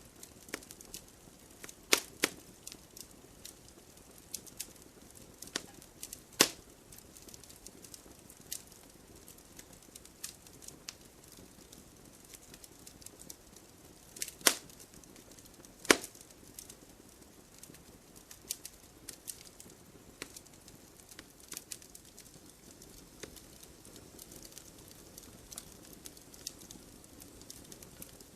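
Wood fire burning, with irregular crackles and sharp pops over a soft steady hiss; four pops stand out louder than the rest.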